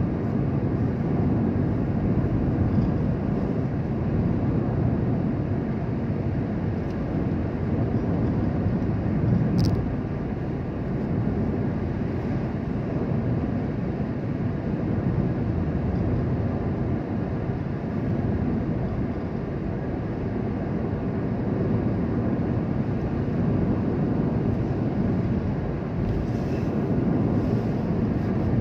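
Steady low rumble of a running vehicle, even throughout, with a single short click about ten seconds in.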